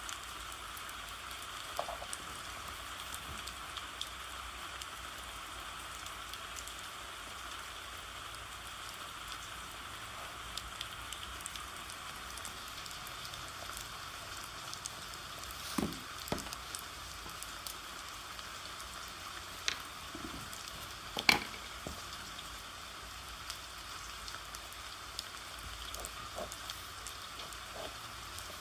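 Steady rain, an even hiss, with a few short sharp taps or clicks scattered through it; the loudest tap comes about two-thirds of the way through.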